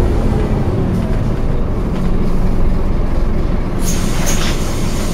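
Scania OmniCity double-decker bus running, a steady low engine and road rumble, with a short hissing burst about four seconds in.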